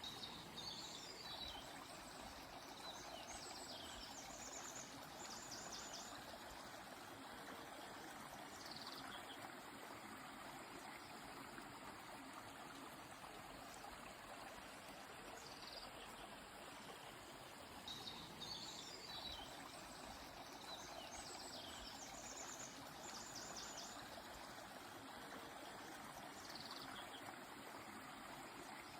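A river flows with a steady, soft rushing, and a songbird sings short high chirping phrases over it. There are two longer runs of song, one near the start and one about two-thirds through, with single brief phrases in between.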